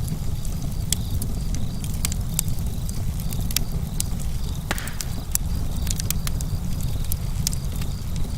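Campfire crackling: irregular sharp snaps and pops over a steady low rumble of burning, with one stronger pop a little past halfway.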